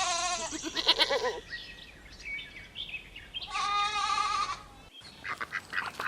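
Goat bleating twice: a wavering call in the first second and a half, then a second bleat about three and a half seconds in.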